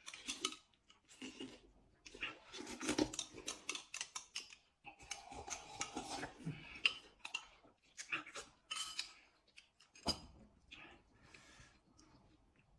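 Close-up eating sounds: noodles being slurped and chewed in irregular bursts, with a metal spoon clinking against a glass bowl.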